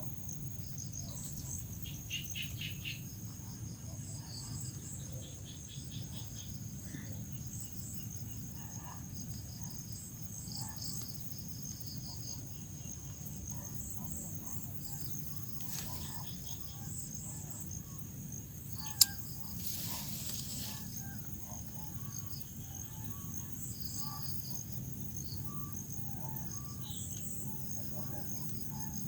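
Crickets chirping: a steady high trill with many short pulsed chirps over it, above a low steady rumble. A single sharp click sounds about two-thirds of the way through.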